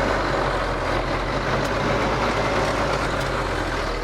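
Ford TW tractor's six-cylinder diesel engine running steadily, pulling a reversible plough on a headland pass.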